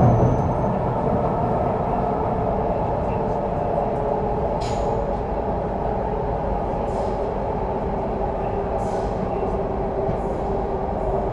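Steady running noise inside an MTR CRRC Changchun EMU motor car under way, the rumble of wheels on rail and the traction equipment.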